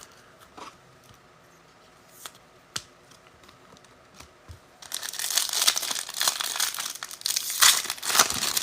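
Wrapper of a pack of Score football cards being torn open and crinkled: a few small handling clicks, then from about five seconds in a loud, continuous crinkling and tearing of the wrapper.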